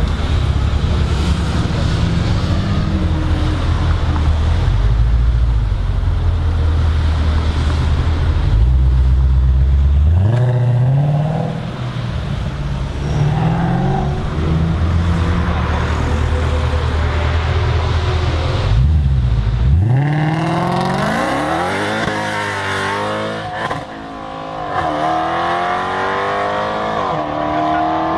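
Mercedes-Benz C63 AMG Black Series with custom exhausts, its 6.2-litre V8 running with a deep low note and a short rev about ten seconds in. From about twenty seconds it accelerates hard, its pitch climbing and dropping back at each gear change several times.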